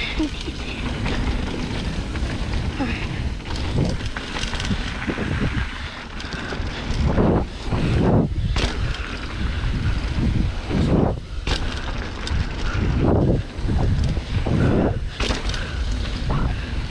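Wind buffeting the microphone of a rider-worn camera while descending a trail at speed, with low rumble that swells and eases in repeated surges.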